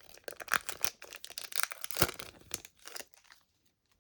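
Foil Pokémon booster pack wrapper crinkling and tearing as it is opened, a quick run of rustles and rips that stops about three and a half seconds in.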